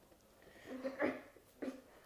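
Two short vocal sounds, a stronger one about a second in and a briefer one half a second later.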